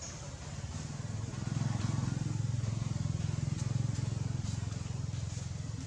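Low engine rumble that swells about a second and a half in and eases off near the end, with a few faint clicks over it.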